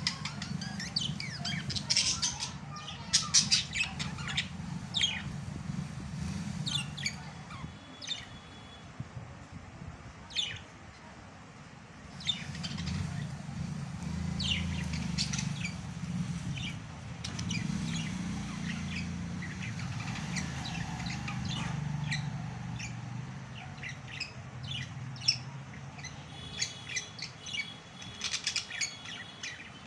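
Budgerigars chirping and squawking, many short calls in quick succession, over a low background rumble.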